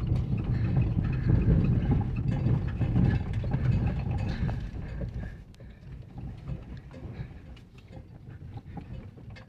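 Chrysler PT Cruiser rolling with its engine dead, a low rumble that fades away from about halfway through as the car coasts to a stop.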